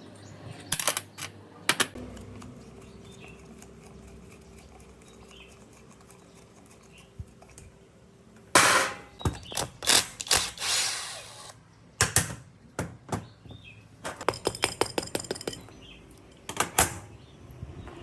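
Workshop work on metal parts: scattered knocks and clinks, a noisy scraping spell of about three seconds past the middle, then more knocks and a quick run of ticks at about ten a second.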